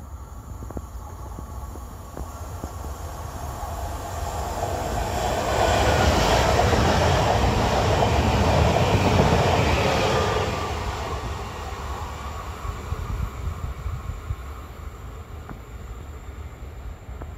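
Pesa Elf 2 electric multiple unit passing by on the rails: its sound builds up, is loudest for about five seconds as the cars go past, then fades as it draws away.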